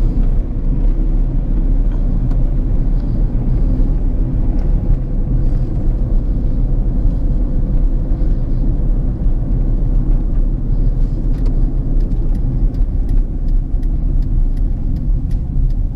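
Hyundai HB20 driving over a rough unpaved road, heard from inside the closed cabin: a steady low rumble of tyres and engine, with a few faint clicks near the end. The driver is listening for suspension knocks that he suspects come from a worn sway-bar link or ball joint.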